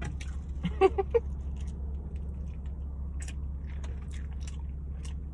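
Close-up mouth sounds of someone eating barbecue ribs: chewing with short wet clicks and smacks scattered throughout, and a couple of brief hummed voice sounds about a second in. A steady low hum runs underneath.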